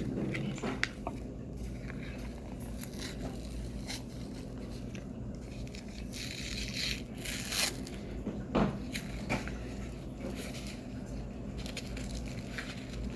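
Someone eating cornstarch: soft bites, chewing and mouth clicks, with a short burst of crinkling about six to seven and a half seconds in. A low steady hum sits underneath.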